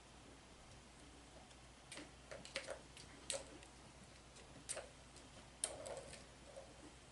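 A handful of light, irregular clicks and taps from a kitten playing with a toy, bunched in the middle few seconds.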